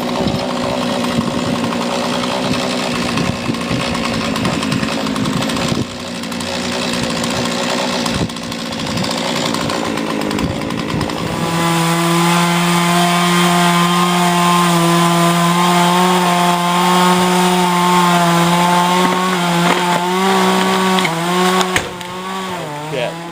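Chainsaw running hard, cutting to fell a tree. From about halfway it is louder and holds a steady pitch, then the pitch wavers and drops near the end.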